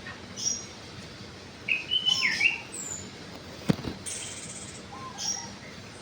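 Birds chirping: short high chirps repeat every few seconds, with a louder run of quick notes about two seconds in and a brief buzzy note later. A single sharp click sounds about halfway through.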